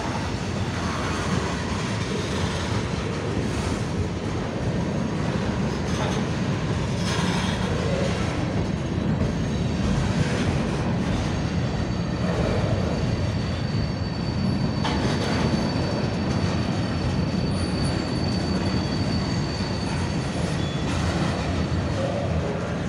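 Covered hopper cars of a long freight train rolling past: a steady rumble of steel wheels on rail with occasional sharp clicks, and a thin high wheel squeal lasting several seconds in the middle.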